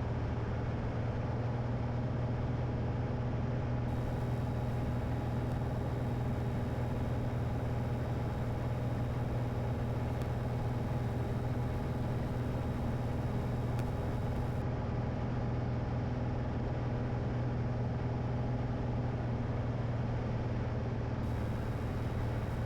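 Light airplane's piston engine and propeller droning steadily, heard from inside the cabin: a constant low hum with no change in power.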